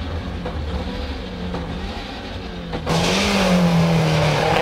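Toyota Corolla AE86 rally car's engine running at speed, heard from inside the cabin. About three seconds in it cuts suddenly to the car heard from the roadside: louder, with a rushing hiss and the engine note dipping and then rising again.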